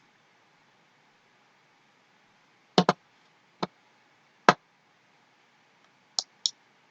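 Computer mouse clicks: a quick double click, two single clicks about a second apart, then two lighter, thinner clicks near the end.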